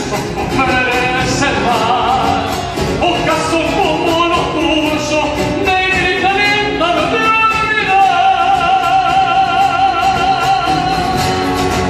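Latin American folk song: a singer over a rhythmic accompaniment, holding one long, steady note in the second half.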